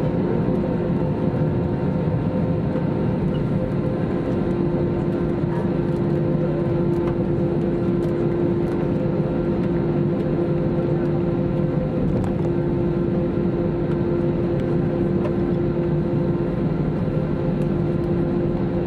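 Steady cabin noise inside an Airbus A321-200 on the ground before takeoff: the engines running at idle with the air conditioning, heard as a low rumble with a constant hum.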